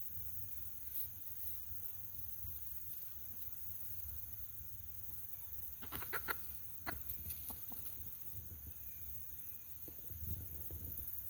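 Backyard hens clucking, with a short run of louder clucks about six to seven seconds in.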